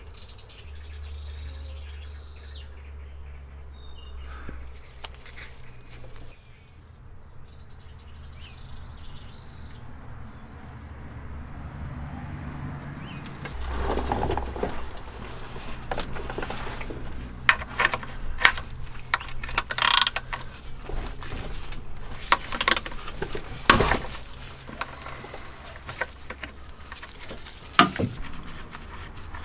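Birds chirping over a low steady hum. About halfway through this gives way to a run of sharp clicks, knocks and clinks from hands working with tools and parts, the loudest ones near the end.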